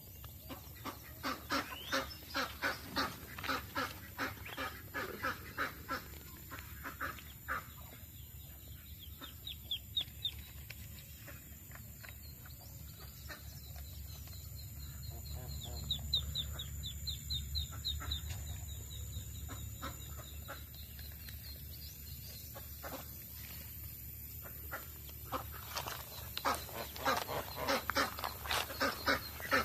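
Ducks calling in runs of rapid quacks that fall quieter through the middle and pick up again near the end, with thin high peeping, typical of ducklings, in between.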